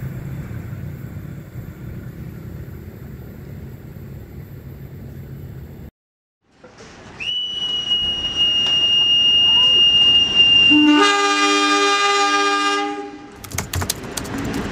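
Passenger train rumbling along the track as it draws away. After a short gap, a long steady whistle blast of about four seconds gives the departure signal on the platform, and then the diesel locomotive's horn sounds for about two seconds.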